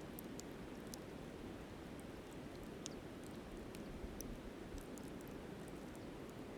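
Steady low rush of a flowing river, with sparse small crackles and pops from a campfire burning down to coals.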